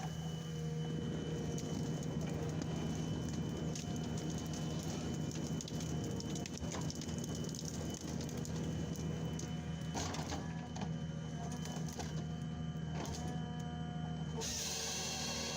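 Forestry machine's diesel engine running steadily with a whine from its hydraulics, and a few sharp clicks and knocks from the working arm about two-thirds of the way through.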